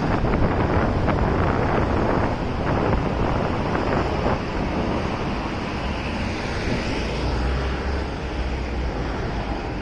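Wind rushing over the microphone of a moving motorcycle, with road and traffic noise beneath. A deeper rumble swells about seven seconds in and fades near the end.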